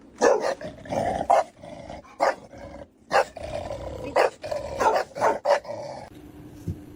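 A dog growling with a run of short, sharp barks, stopping about six seconds in.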